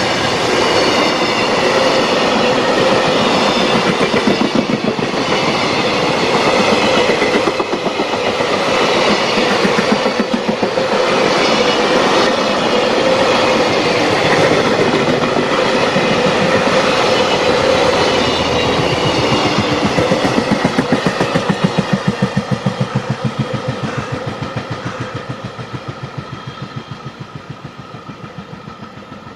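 Container wagons of a freight train rolling past at speed: a steady, rapid clickety-clack of wheels over the rail joints. It fades away over the last several seconds as the end of the train goes by.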